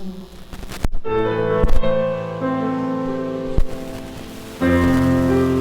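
Keyboard playing slow, sustained chords of soft worship music. It moves to a new chord about a second in and swells into a louder chord near the end.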